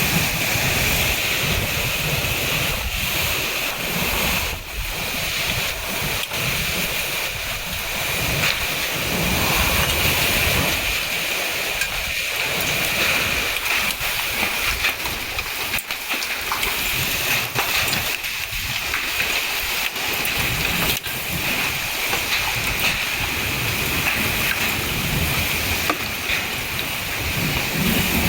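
Heavy downpour pelting down steadily, with many sharp hits scattered through the rush of the rain.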